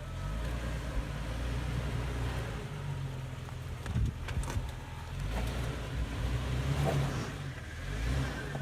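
A car's engine running low and uneven, swelling and easing off, with a few sharp knocks about halfway through.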